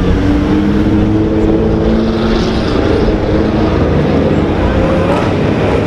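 Car engines running hard as cars pull away along the street: a loud, steady engine drone whose pitch holds and then shifts as the revs change.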